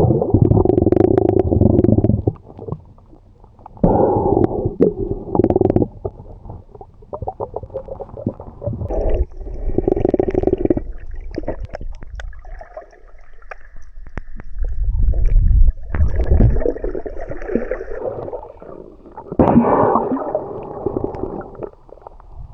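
Muffled rumbling and gurgling of water on a submerged camera, coming in irregular loud surges with quieter gaps.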